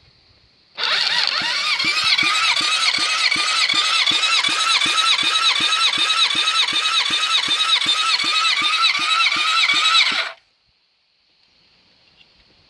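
Car engine cranked on its starter motor for a compression test on cylinder 4, without starting: a starter whine that dips in pitch about three and a half times a second as the cylinders come up on compression. It starts about a second in and cuts off suddenly after roughly nine seconds.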